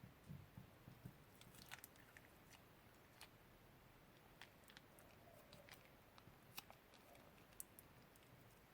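Very faint handling sounds of slime making: a few soft low thuds in the first second, then scattered small clicks and crackles.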